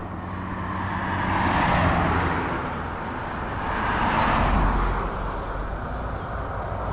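Cars passing by on a road, one after another: the tyre and engine noise swells up and fades twice, about two seconds in and again about four and a half seconds in, over a low steady hum.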